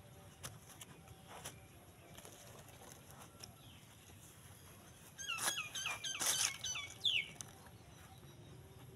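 A bird chirping in a quick run of short, hooked notes for about two seconds, a little over halfway through, ending with one longer falling note.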